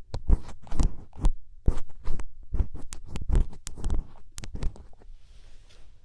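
Close-miked ASMR 'karikari' sounds: rapid, crisp crunching and scratching clicks, thinning out after about four seconds into a few ticks and a soft rustling hiss.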